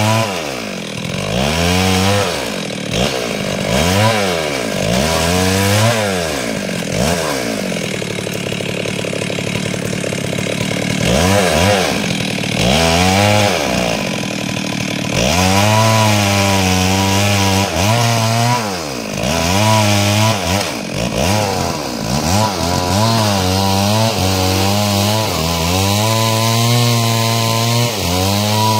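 Stihl two-stroke chainsaw running hard while ripping timber, its engine speed rising and falling every couple of seconds at first, then held high for longer stretches in the second half.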